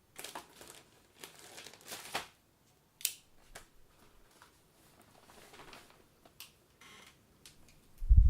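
Rustling and crinkling handling noises with a few sharp clicks, then a loud low thump near the end.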